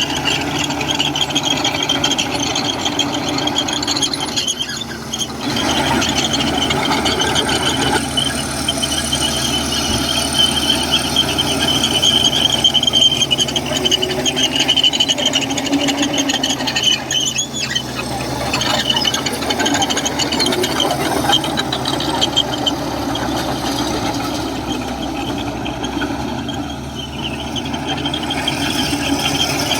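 Komatsu crawler bulldozer working, its diesel engine running under load with a steady high squeal from the steel tracks and undercarriage, dipping briefly a few times.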